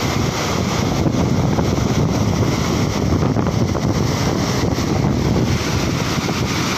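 Steady rushing noise, heaviest at the low end, of wind buffeting the microphone.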